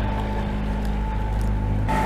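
Perkins 4-108 four-cylinder marine diesel engine running steadily at idle.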